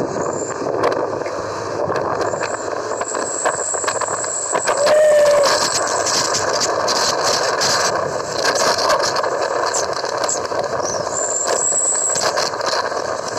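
Truck engine running steadily, with frequent clicks and rattles over it and a brief tone about five seconds in.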